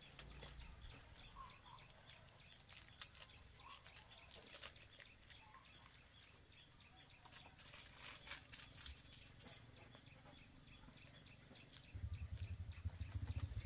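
Quiet background with a few faint bird chirps and scattered light clicks. A low, pulsing hum comes in near the end.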